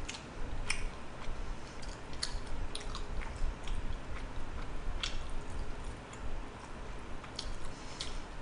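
Close-miked chewing of jokbal (braised pig's trotters): irregular clicks and smacks of the mouth and teeth, a dozen or so spread unevenly, with no talking.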